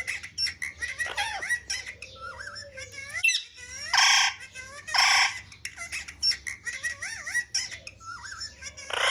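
Parrot making whistled, warbling chatter with many short rising and falling notes, broken by two loud harsh squawks about four and five seconds in.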